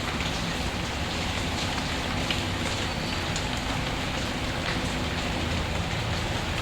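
Steady rainfall, an even hiss with a low rumble underneath, with a few sharp crackles from a wood fire scattered through it.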